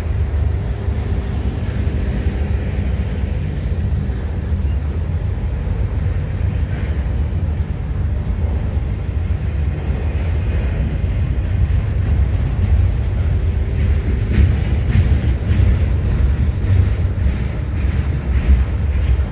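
A train passing on the line, a steady heavy rumble with a rapid series of sharp clicks in the second half.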